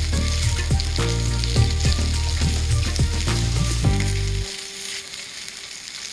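Food sizzling in a frying pan, a dense crackling hiss with scattered clicks, under background music whose bass drops out about four and a half seconds in, leaving the sizzle quieter.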